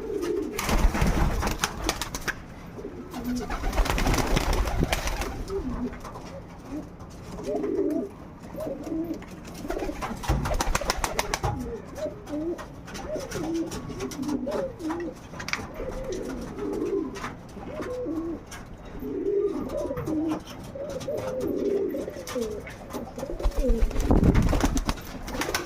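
Pigeons cooing, many short low calls repeated one after another. A few louder rustling noises break in, about a second in, around four seconds, near the middle and near the end.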